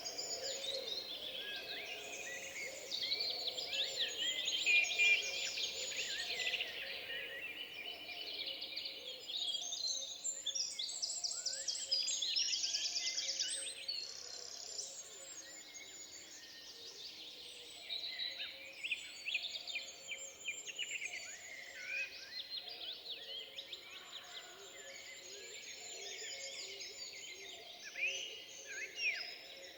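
Forest birdsong: several birds singing over one another in a busy chorus of quick trills and warbles, thinning somewhat in the second half.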